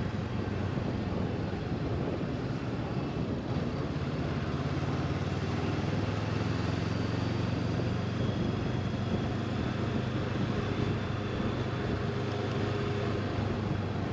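Honda CB500X motorcycle's parallel-twin engine running at a steady riding speed, a constant low drone over an even rush of noise.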